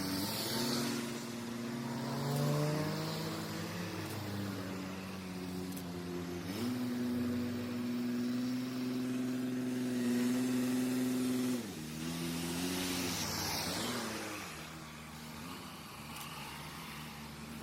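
A wood chipper's engine running, its pitch stepping up about six and a half seconds in and dropping back again near twelve seconds. Short bursts of rushing noise come at the start and again about thirteen seconds in.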